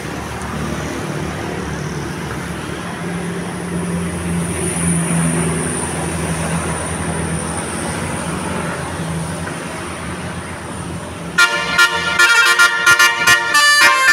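A bus engine running with traffic noise, then about eleven seconds in a loud multi-tone musical bus horn (telolet horn) starts playing in quick, rhythmic blasts.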